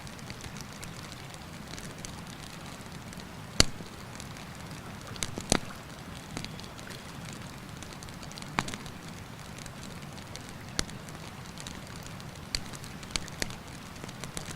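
Campfire crackling, with sharp wood pops every second or two, the loudest about three and a half and five and a half seconds in, over a steady rush of a mountain river.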